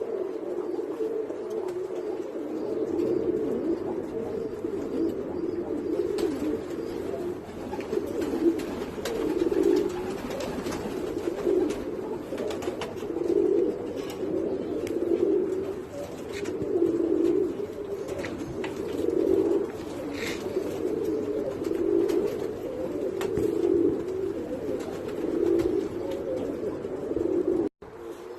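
Several domestic pigeons of Iranian breeds cooing together, a continuous low cooing that swells every second or two.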